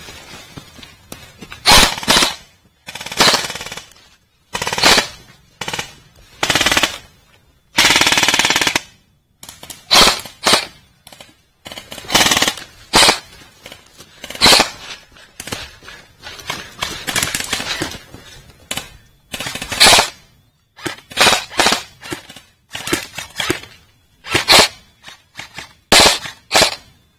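Airsoft guns firing in repeated short full-auto bursts, about twenty in all, with the longest burst of about a second and a half coming around eight seconds in.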